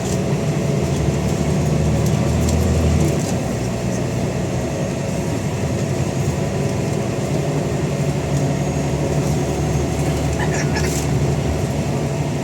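Scania N94UD Omnidekka double-decker bus's diesel engine, driven through a ZF automatic gearbox, running under way with a steady thrashy drone. It is loudest for the first three seconds, then eases a little, with a brief rattle near the end.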